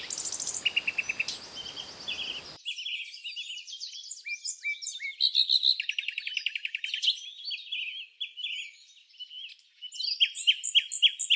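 Songbirds singing: a busy mix of high chirps, rapid trills and quick downward-sweeping notes, several birds overlapping. A faint background hiss stops abruptly about two and a half seconds in, where one recording gives way to another.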